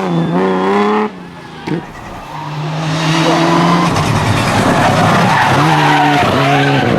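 Rally car engines at full throttle, revs climbing and then shifting in steps with gear changes. From about halfway, rough tyre-sliding noise runs under the engine.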